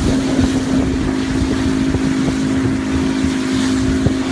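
Motorboat engine running at a steady pitch, a constant hum, with wind buffeting the microphone.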